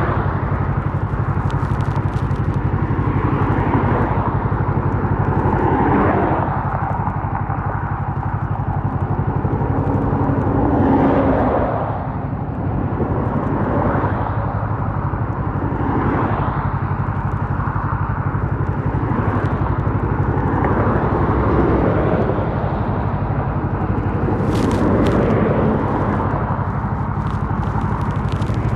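Kawasaki Versys 650 parallel-twin engine with an MIVV slip-on exhaust, running under way at a fairly steady pace. Its low exhaust note holds throughout, with noise that swells and fades every few seconds.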